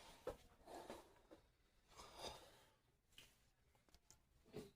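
Near silence: room tone with a few faint clicks and rustles, as of hands handling tools or parts.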